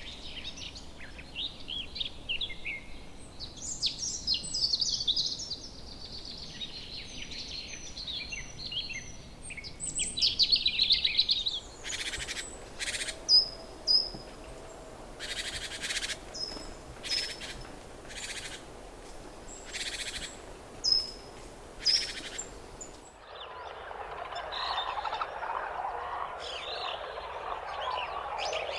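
Tropical birds calling in a run of different recordings: first a dense chorus of high chirps and trills, then about a dozen harsh rasping calls with short thin whistles between them, then a busy lower chattering from about 23 seconds in.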